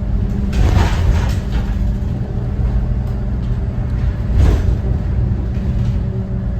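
Cummins ISB 6.7 straight-six turbodiesel of a 2014 Thomas Saf-T-Liner C2 school bus running under way, a steady drone with road rumble. Two brief louder swells of noise come through, about a second in and again about four and a half seconds in.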